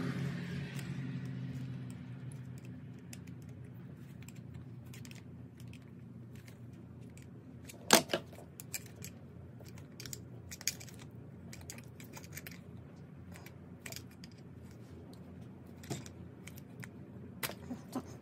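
Small metallic clicks and clinks of hand tools and starter solenoid parts being handled while the solenoid is taken apart, scattered and irregular, with one sharp click about eight seconds in. A low hum fades away over the first couple of seconds.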